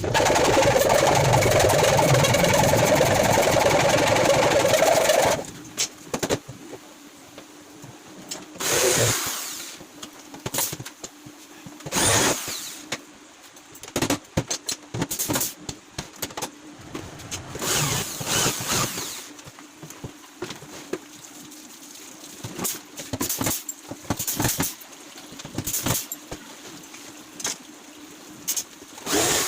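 An electric power tool runs steadily and loudly for about five seconds, then stops suddenly. After that come scattered short bursts of tool noise and knocks from the case work.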